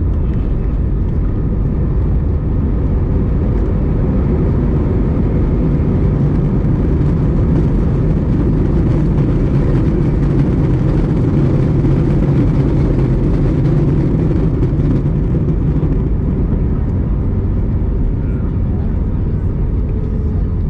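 Cabin noise of an Airbus A321-200 during landing: a steady engine and airflow rumble that swells for about ten seconds, then eases.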